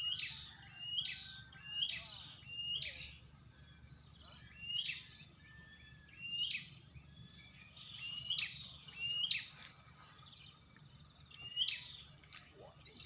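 A wild bird calling over and over, about eleven short sharp notes each roughly a second apart, with a couple of brief pauses, over steady low background noise.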